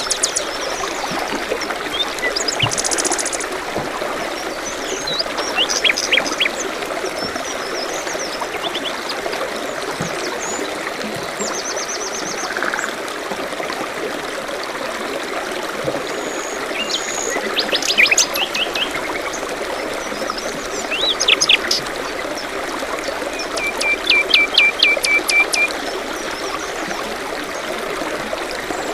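A small stream trickling steadily, with songbirds calling over it: scattered short chirps and whistles, and a quick run of about a dozen repeated notes near the end.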